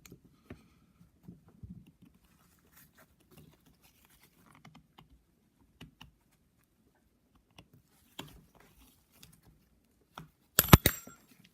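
Faint scratching and light metallic clicks of a steel pick working at a piston pin snap ring, then a quick burst of sharp metallic snaps near the end as the snap ring springs free of its groove.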